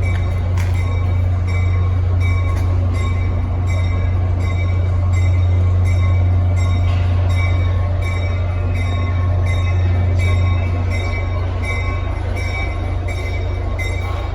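Train locomotive running with a loud, steady low drone while its bell rings at an even pace of about two strokes a second.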